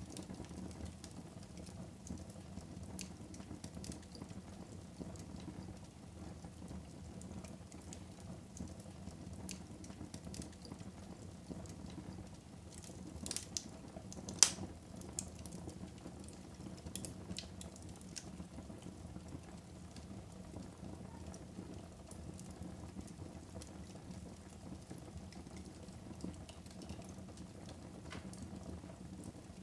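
Wood fire burning in a fireplace: a low steady rush with scattered crackles and pops, one sharp pop about halfway through standing out as the loudest.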